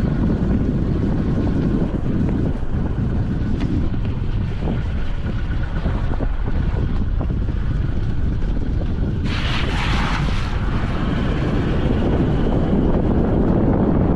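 A vehicle driving along a rough unsealed track: a steady low road and engine rumble with small knocks and rattles, and wind buffeting the microphone. A brief hiss lasting about a second comes a little over nine seconds in.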